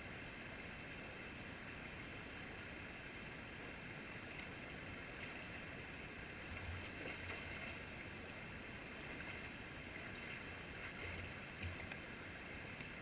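Faint steady rush of flowing creek water, with a few soft low bumps about halfway through and again near the end.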